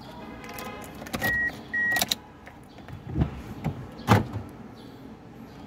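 Two short high electronic beeps from the car, about a second in, over a faint steady hum; a few low knocks and clunks follow around three to four seconds in. The engine has not started yet.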